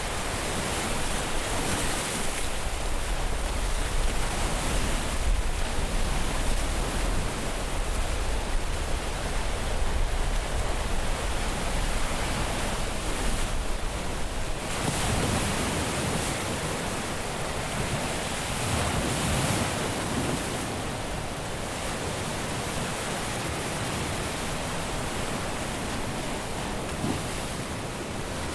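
Caribbean surf breaking on a beach: a steady wash of waves that swells and eases every few seconds, with some wind on the microphone.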